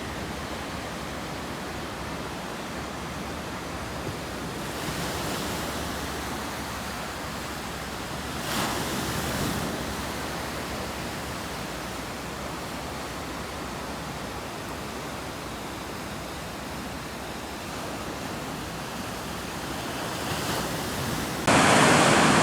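Ocean surf: a steady wash of breaking waves, swelling briefly twice. Music cuts in near the end.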